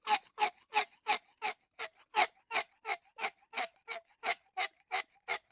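Ticking clock sound effect: short, even ticks, about three a second.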